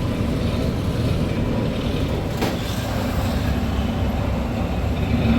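A moving vehicle's steady low rumble, with a single short knock about two and a half seconds in.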